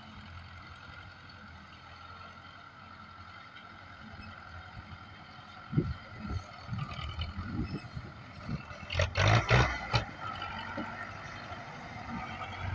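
Tractor engine running steadily under front-loader work, with irregular low knocks from about halfway and a loud metallic clatter about three-quarters of the way through.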